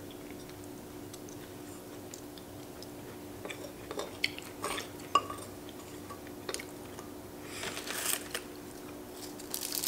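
A person chewing food close to the microphone, with scattered light clicks of metal chopsticks and a spoon against ceramic bowls, over a faint steady room hum.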